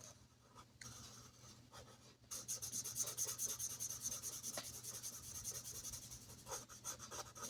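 Pen scribbling on paper with rapid back-and-forth strokes, starting about two seconds in, after a quieter stretch of faint handling.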